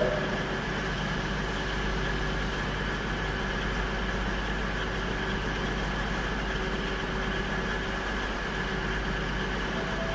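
Large vehicle engine idling steadily: a constant hum with faint high whining tones that hold level throughout.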